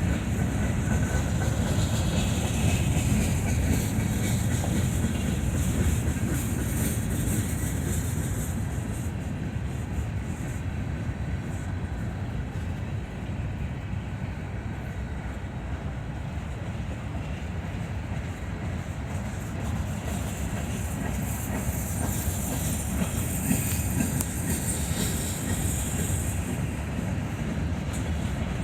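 Norfolk Southern mixed freight train rolling past, a steady rumble of wheels on the rails, with a high hiss that is stronger at the start and again near the end.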